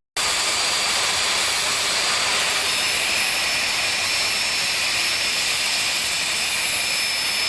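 Jet engine of a jet-powered drag racer running steadily: a loud, even rush with a thin, high, steady whine.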